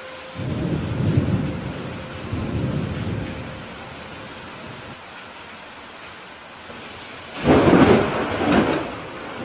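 Steady rain with thunder. A low rolling rumble in two swells starts about half a second in, and a louder, sharper peal of thunder comes about seven and a half seconds in.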